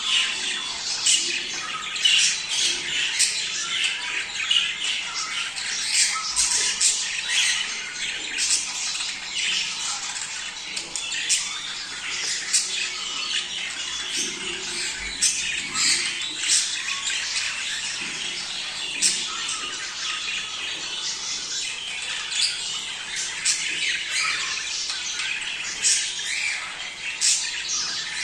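A flock of budgerigars chattering and squawking at once in the breeding-season chorus that keepers play to stimulate mating: a continuous busy mass of short sharp calls and warbles, with frequent louder squawks standing out.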